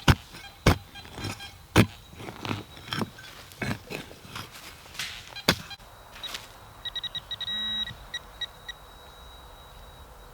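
A digging tool striking into soil several times in sharp, irregular hits. Then, about seven seconds in, a handheld metal-detecting pinpointer beeps rapidly for under two seconds as it finds metal in the dirt.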